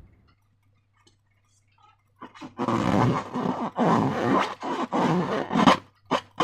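Slime being squished by hand with a balloon: a run of sticky, crackling squelches starting about two seconds in, then a few short sharp pops near the end.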